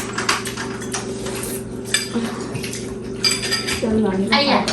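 Cutlery clinking and scraping against bowls and plates during a meal, with scattered short clinks over a steady low hum. A brief voice sound comes in near the end.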